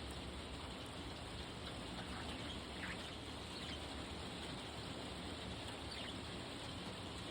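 Steady hiss with a few faint, short budgie chick chirps, about three seconds in and again near six seconds.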